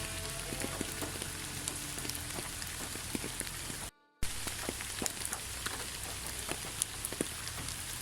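Steady rain falling, with many separate drops pattering on a surface; the sound cuts out briefly about halfway through and resumes.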